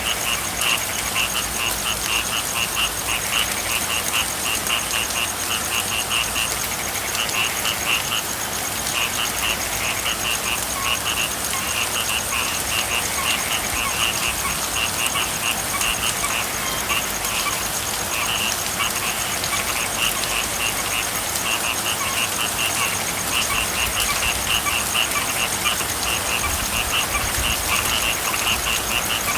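A chorus of frogs calling in runs of quick, pulsed high-pitched croaks, broken by short pauses, over the steady hiss of falling rain.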